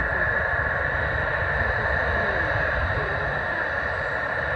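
Airliner jet engines running steadily, a high whine over a low rumble, with wind buffeting the microphone.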